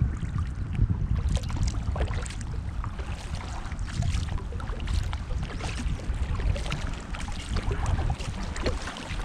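Wind rumbling on the microphone over irregular splashing and lapping water as a kayak is paddled across a river current.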